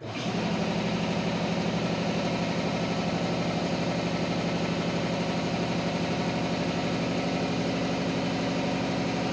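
Piston air compressor switching on and running steadily with a fast, even pulsing, building back the pressure that had run down.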